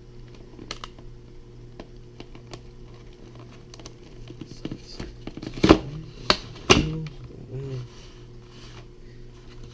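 Plastic and cardboard packaging rustling and crinkling as a portable humidifier is handled out of its box, with scattered small clicks. Three sharp knocks come close together a little past halfway. A steady low hum runs underneath.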